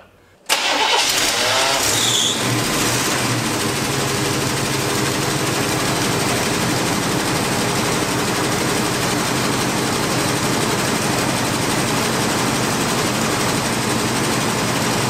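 Truck's carbureted engine, fitted with a 750 Holley carburetor, running steadily at a fast idle on the choke during an ignition-timing check. It starts abruptly about half a second in.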